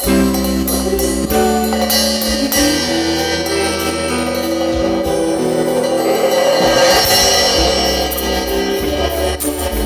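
Live cumbia band playing an instrumental passage: sustained keyboard chords over a bass line, with drums and cymbals keeping a steady beat.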